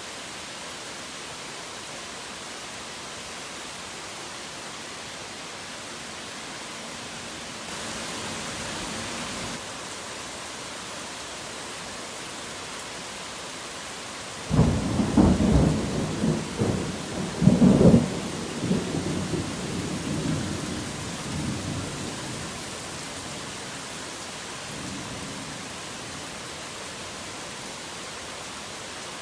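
Steady heavy rain. About halfway through, a sudden loud thunderclap breaks in and rolls for several seconds with two peaks before fading. A faint distant rumble of thunder follows near the end.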